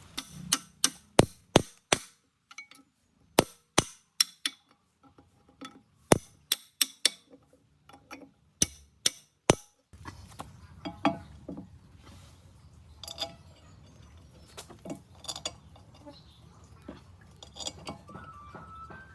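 Sharp metallic clinks and taps of tools and metal engine parts being handled during engine assembly, coming irregularly one after another. From about ten seconds in, the clinks grow fainter and a low steady hum lies under them.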